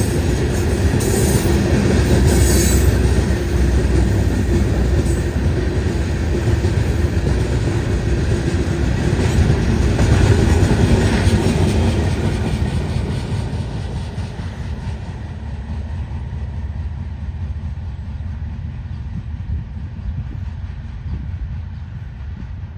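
Canadian National freight cars rolling past on the rails: a steady rumble with clickety-clack and short high wheel squeals in the first few seconds. It grows quieter about two-thirds of the way through.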